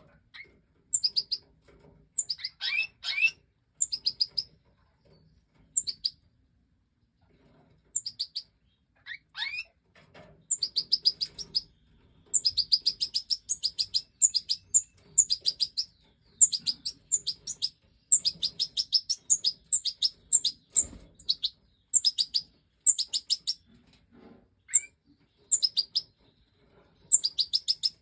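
Major goldfinches (the large race of the European goldfinch) giving rapid runs of short, high-pitched chirps in bursts with brief pauses, and now and then a quick rising note.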